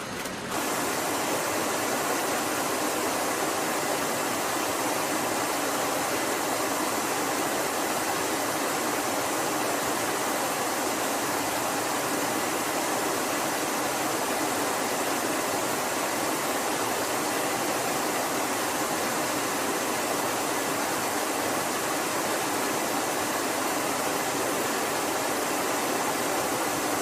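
Steady rushing noise on the flight deck of a KC-10 tanker climbing out after takeoff with gear up: airflow and engine noise, even and unchanging, with a faint thin tone running through it.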